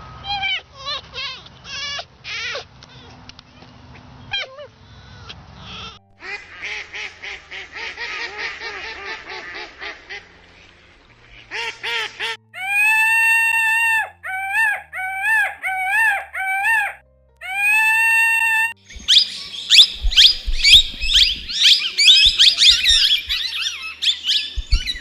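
Bird calls in several runs. Short repeated calls give way to a quick run of calls, then long calls at one steady pitch, then dense, fast chirping near the end, which is the loudest part.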